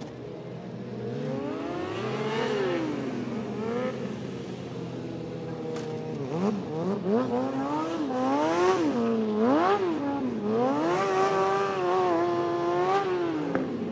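Motorcycle engine being revved: one rise and fall early on, then several quick blips of the throttle, then held up for a couple of seconds before dropping back to idle near the end. A steady engine drone runs underneath.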